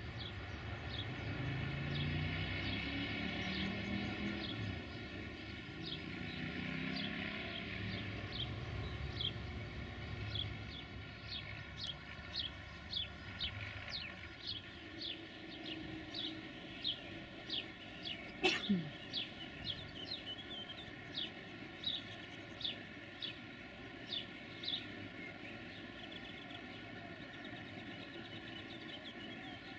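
A bird repeats a short downward-sweeping chirp about twice a second for some fifteen seconds, over a low rumble that is strongest in the first few seconds. One sharp click sounds partway through the chirping.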